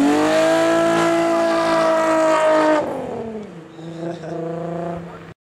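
Car engine held at high revs for about three seconds, then the revs drop and it runs on at a lower pitch before the sound cuts off abruptly near the end.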